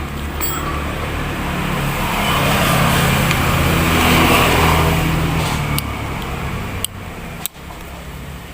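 A motor vehicle passing by: an engine hum that swells over a couple of seconds and then fades away, followed by a couple of sharp clicks near the end.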